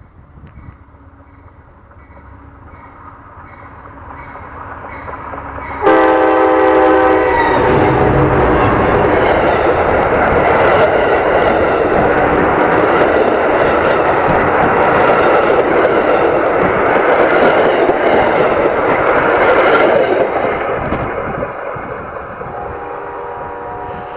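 Amtrak Vermonter passenger train approaching and passing directly over the listener between the rails. The rumble builds, then the locomotive horn blasts for about a second and a half as it arrives. Loud wheel and undercarriage clatter follows for about twelve seconds, then fades as the last car goes by, and the horn sounds again, fainter, near the end.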